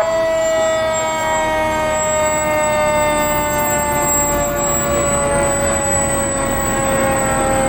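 Fire truck siren sounding one long wail that slowly falls in pitch, over the low rumble of the passing truck.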